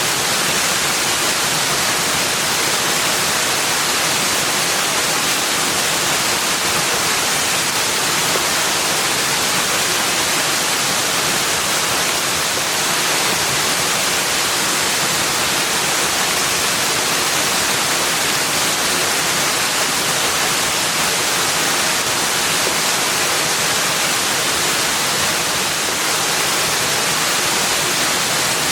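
Steady, unbroken rush of flowing water, even and hissy, with no calls or other events standing out.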